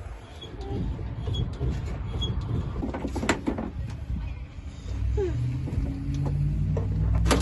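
A vehicle engine running over low rumbling, settling into a steady low hum from about five seconds in.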